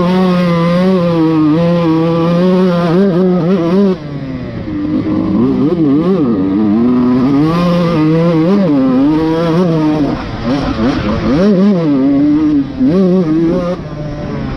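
Dirt bike engine run hard around a motocross track, its pitch rising and falling as the rider works the throttle and gears. About four seconds in the throttle briefly closes.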